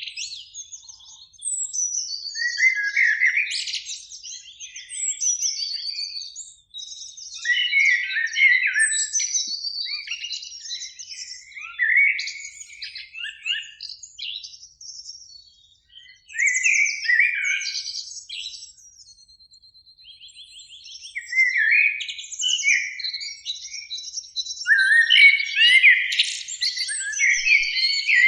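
Two Eurasian blackbirds singing, phrase after phrase with short pauses between, and a quieter lull a little past the middle.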